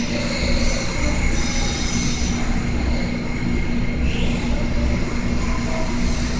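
TIG (argon) welding arc buzzing steadily, with a constant low hum under a rough hiss.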